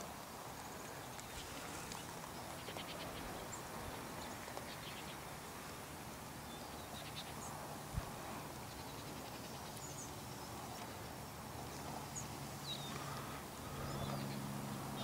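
Faint outdoor quiet with scattered short, high bird chirps and a single soft tap about halfway through. A low distant drone grows a little louder near the end.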